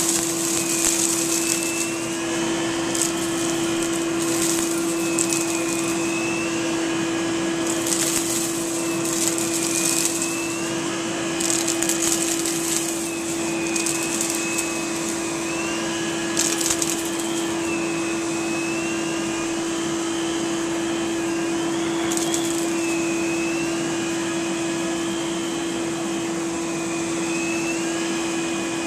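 Central vacuum running through a power nozzle, with a steady motor hum and a whine that rises and falls every couple of seconds as the nozzle is worked back and forth. Short surges of hissing airflow come every few seconds.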